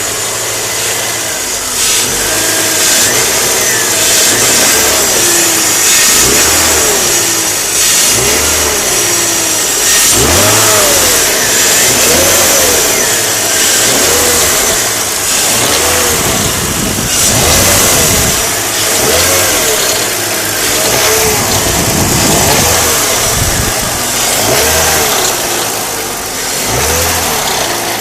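BMW M54B30 straight-six petrol engine revved in repeated short blips, about every two seconds, each rising in pitch and falling back toward idle.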